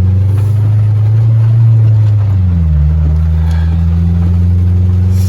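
Manual-transmission car's engine running while driving, heard from inside the cabin; its note dips about two and a half seconds in and then picks up again.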